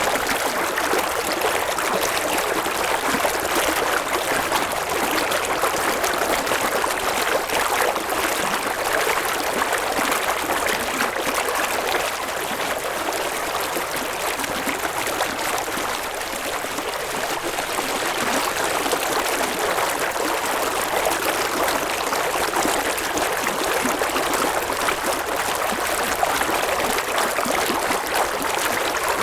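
A river running over rocks: steady rushing and babbling water that eases slightly for a few seconds midway.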